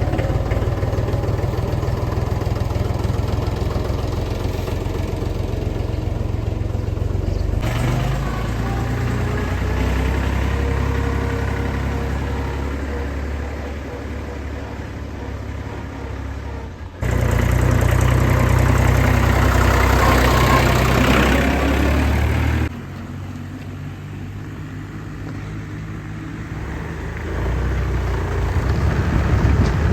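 Tractor diesel engine running steadily, heard in several clips cut together, with the sound changing abruptly about 8, 17 and 23 seconds in.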